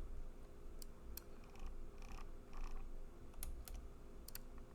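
Scattered computer keyboard keystrokes and clicks, single or in quick pairs with gaps between, over a faint steady hum.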